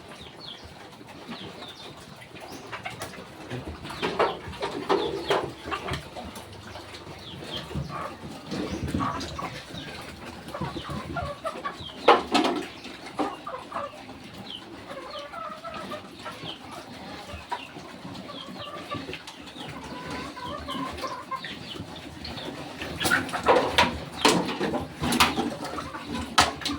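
Chickens clucking, with scattered short calls and a few sharp knocks, loudest about halfway through and again near the end.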